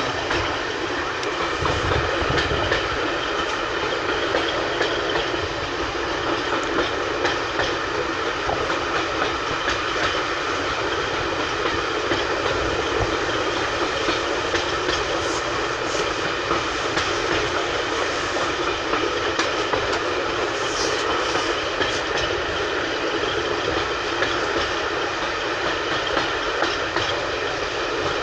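Heritage railway coach rolling steadily along jointed track: a continuous running rumble with the wheels clicking over the rail joints.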